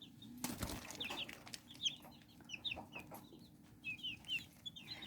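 Several young chicks peeping, faint short high chirps repeating irregularly, with a brief rustle or flutter about half a second in.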